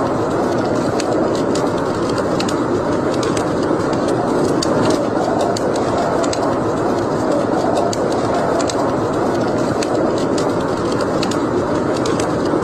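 Wood fire burning in a fireplace: a steady rushing of flames with frequent irregular sharp crackles and pops.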